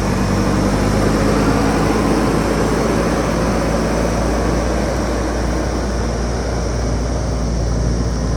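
JCB backhoe loader's diesel engine running steadily and loud, with a low engine hum under a dense mechanical noise.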